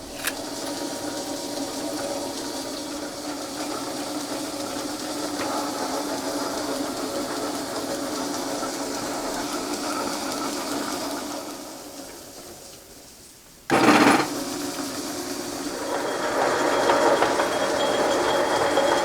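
A metal lathe running steadily with a hum and light clatter, winding down about twelve seconds in. A loud, sudden, short burst follows, and the machine runs again, louder near the end.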